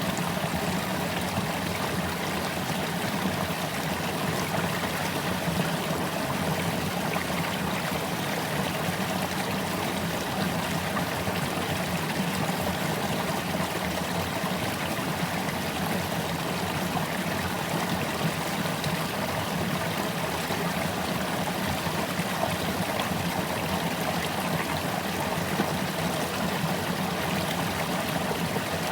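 Water pouring over a small creek waterfall, a steady rushing and splashing.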